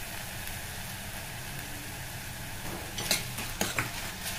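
Grated tomato masala sizzling in oil in a stainless steel kadhai. A metal spoon scrapes and clinks against the pan a few times about three seconds in.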